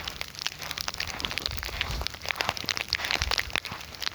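Footsteps crunching on ice-crusted ground after an ice storm, with irregular crackling and cracking and a few dull thuds from the steps.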